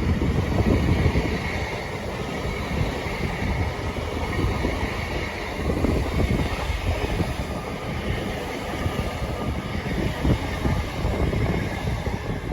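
A passing train running through at speed without stopping: a steady noise of wheels on rails, a little louder near the start.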